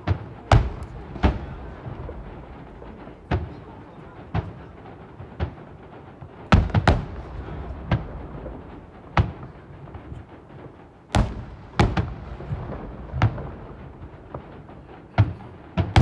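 Fireworks bursting overhead in an irregular series of sharp booms, roughly one a second and some in quick pairs, with a low rumble carrying on between bursts.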